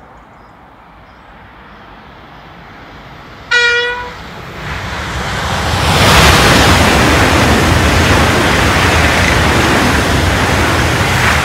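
Eurostar Class 374 (e320) high-speed train giving one short horn toot about three and a half seconds in, then passing at speed: a loud rush of wheels and air that swells up over the next two seconds and stays loud.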